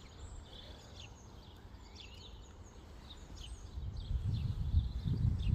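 Many short chirps from a group of starlings and sparrows. From about four seconds in, an uneven low rumbling noise grows louder underneath.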